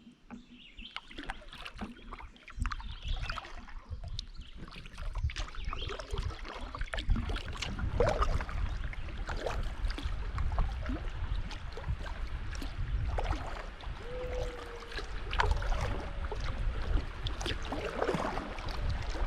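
Water splashing and rippling around a kayak on a fast-flowing river, with irregular paddle splashes and a steady low rumble over the microphone.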